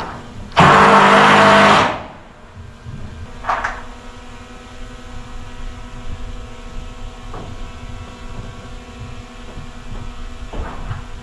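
A motor-driven power tool runs loudly for just over a second, then stops, leaving a steady hum and a few light knocks.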